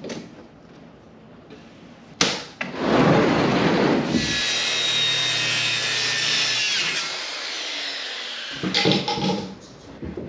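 A knock about two seconds in, then a power tool working wood for several seconds in a steady run that stops abruptly, followed by a few clattering knocks.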